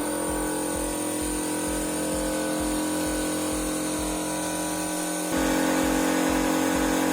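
Electric air compressor switched on, its motor starting abruptly and running with a steady hum and a high whine, and getting louder about five seconds in. It is pumping air into a welded stainless-steel heat exchanger for a pressure test.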